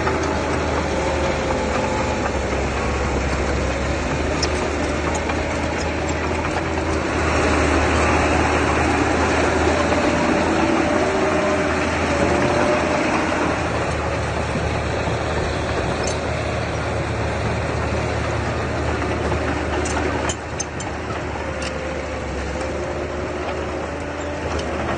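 Heavy earth-moving machine's engine running continuously, its pitch wandering up and down under load. It gets louder about seven seconds in and drops in level suddenly about twenty seconds in.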